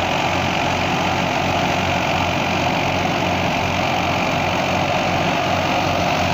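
Fiat 480 tractor's diesel engine running steadily under load, driving a threshing machine whose whirring adds a continuous broad hum over the engine's even rumble.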